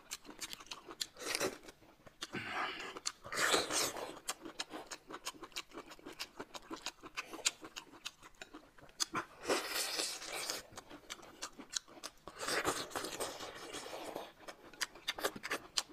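Close-miked eating: chewing and biting with frequent small clicks and smacks, and four longer, noisier bursts of about a second each.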